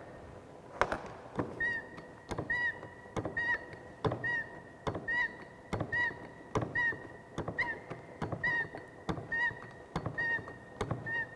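Hand-operated hydraulic pipe bender being pumped, its handle worked up and down while it bends a galvanized pipe. Each stroke gives a click and a short squeak, about one every 0.8 seconds.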